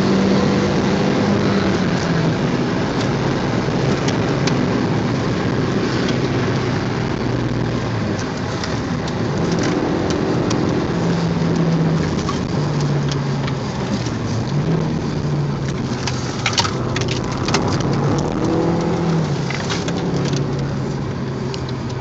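Cabin sound of an Audi TT 1.8 Quattro's turbocharged four-cylinder engine under way at speed, its note rising and falling with the throttle, over steady tyre and wind noise. A few small ticks come in the second half.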